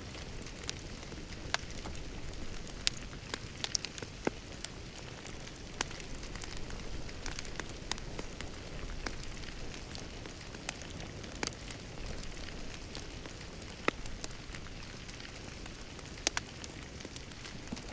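Fireplace fire crackling: irregular sharp pops and snaps over a steady low rush of flame.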